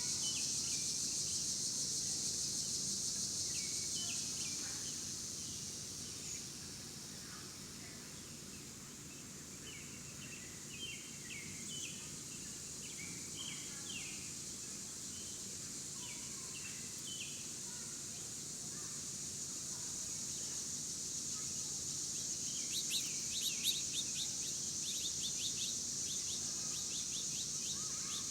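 Outdoor ambience: small birds chirping here and there over a steady, high-pitched insect drone that slowly swells and fades. Near the end comes a quick run of sharper, louder chirps.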